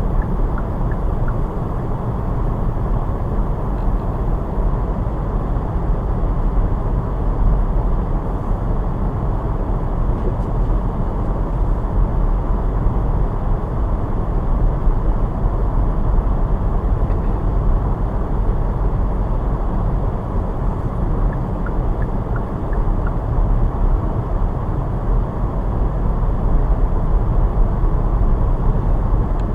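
Car driving on snowy roads: a steady low rumble of tyres and engine.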